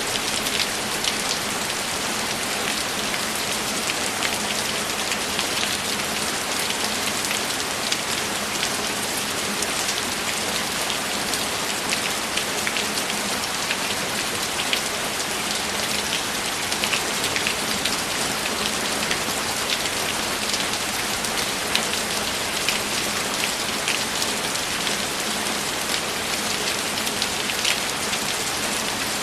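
Steady rainfall: an even hiss with many small drops ticking close by on a surface.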